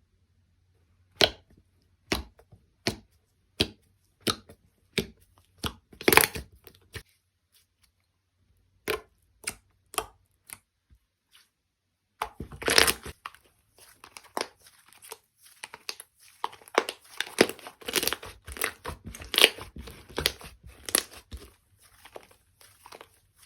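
Slime being played with by hand: a run of sharp clicks and pops about every 0.7 seconds, a few scattered pops, then from about halfway on a dense crackling, crinkling crunch.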